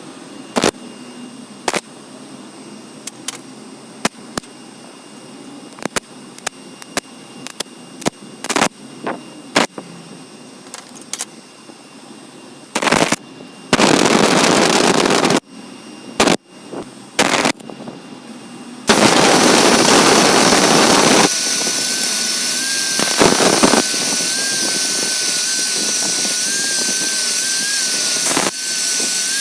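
A series of sharp clicks and knocks. Then an angle grinder driving a homemade belt grinder is run in two short bursts, and after that runs continuously with a steady whine.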